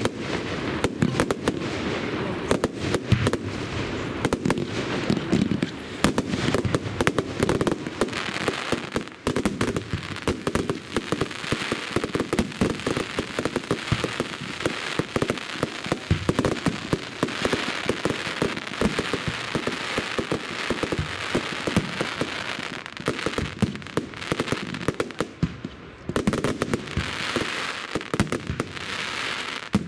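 Fireworks display: a dense, unbroken barrage of bursting fireworks, many sharp bangs and crackles following close on one another.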